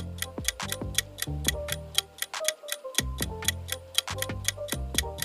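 Quiz countdown music: a clock-ticking effect at about four ticks a second over a light bass line and melody.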